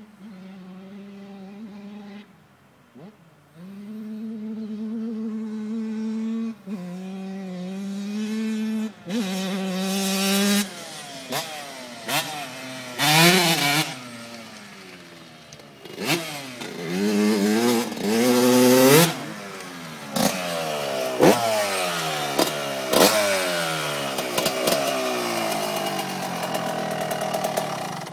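Yamaha YZ125 125cc two-stroke motocross bike engine. It runs steadily at first, then is revved hard and repeatedly: the pitch rises and falls through the gears, with the loudest bursts around the middle.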